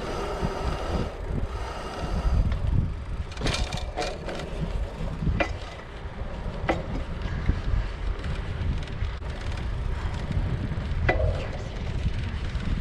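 Wind rushing over the microphone with a low rumble while riding a hybrid bicycle. A few sharp clicks or knocks come from the bike along the way.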